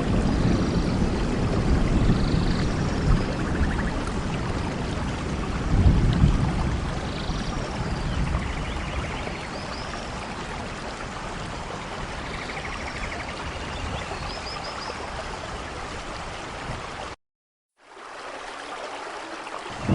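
Steady rain with low rumbles of thunder swelling about the start and again about six seconds in, and scattered short high chirps above it. Near the end the sound cuts out for under a second, then the rain comes back quieter.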